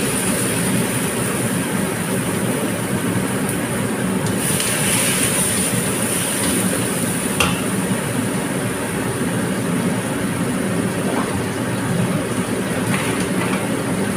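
Dried anchovies, garlic, onion and chili sizzling steadily in hot oil in a wok, just after soy sauce has gone in, with a few brief scrapes of a spatula against the wok.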